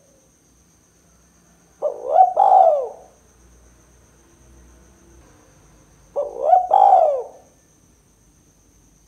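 Spotted dove (tekukur) cooing twice, about four seconds apart. Each call is a quick short note followed by a longer coo that rises and falls in pitch.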